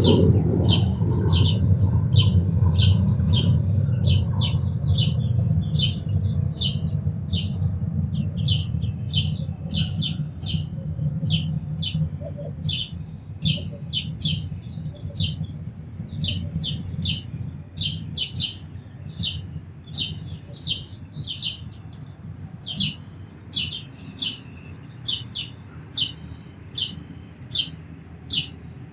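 A house sparrow chirping over and over, about two short chirps a second. A low rumble underneath fades away over the first twenty seconds.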